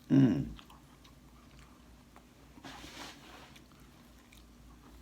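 Chewing of chicken feet close to the mic, opening with a short hummed 'mm' and then going on faintly with small wet clicks, plus a brief hiss about three seconds in.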